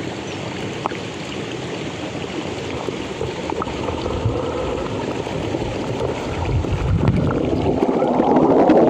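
Mountain stream rushing steadily, swelling louder near the end.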